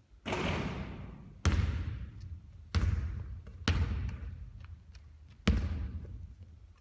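A basketball thudding and bouncing during repeated three-point shooting: about five sharp hits, roughly a second apart, each trailing off in an echo.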